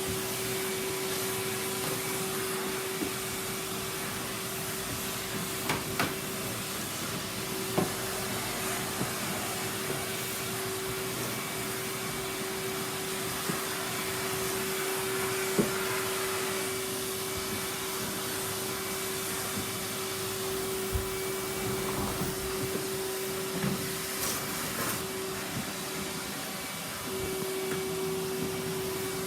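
Henry cylinder vacuum cleaner running steadily while sucking up wood shavings, with sharp clicks and rattles now and then.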